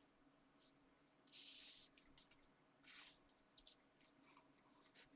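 Near silence with a brief soft hiss about a second and a half in, a fainter one near three seconds, and a few light ticks: paper and card being slid and handled.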